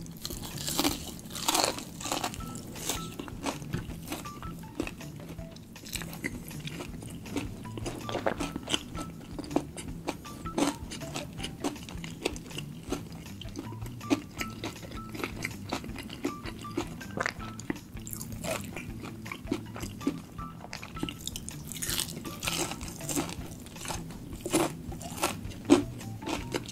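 Crispy fried chicken being bitten and chewed close to the microphone: a run of sharp, crisp crunches throughout, heaviest in the first two seconds and again near the end. Soft background music plays underneath.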